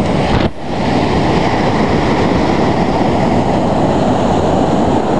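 Steady rumble of wind buffeting the camcorder microphone over the wash of breaking surf, with a brief drop in the noise about half a second in.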